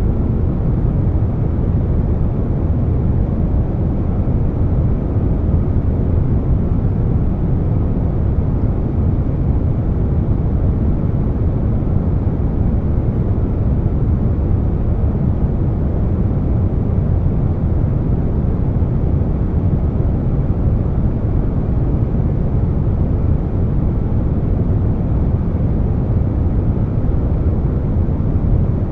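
Air conditioner running blended with brown noise: a steady, even noise weighted toward the low end, with no changes.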